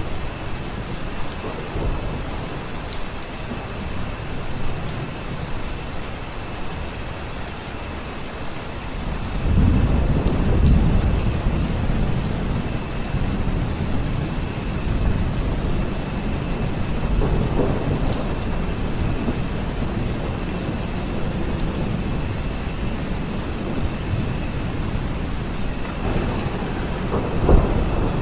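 Steady heavy rain with rolling thunder: a long low rumble builds about a third of the way in, another swells later, and a sharper, louder clap comes near the end.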